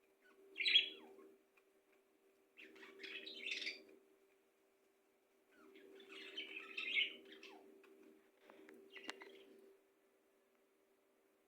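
Small birds chirping and twittering in four short bursts with pauses between them. The first burst, about half a second in, is the loudest.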